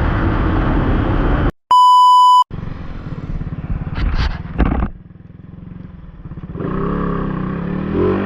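A steady high beep lasting just under a second, then a Yamaha Sniper 155's single-cylinder four-stroke engine running, revving up briefly about four seconds in, dropping low, and rising again near the end.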